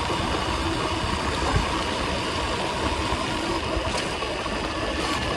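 A 2000 W electric bike being ridden: steady rumble and rush of wind and tyres, with a faint steady motor whine.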